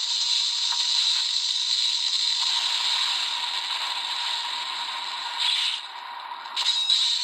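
Electronic sound effect from the Gokai Saber/Gun toy's built-in speaker: a long, steady hissing effect with two short louder bursts near the end.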